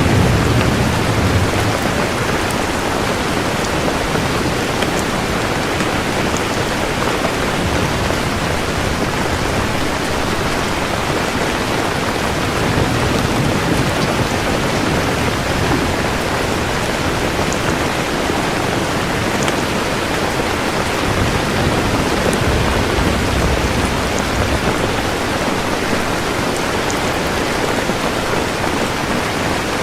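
Steady, dense rainfall. A low thunder rumble dies away in the first second or so.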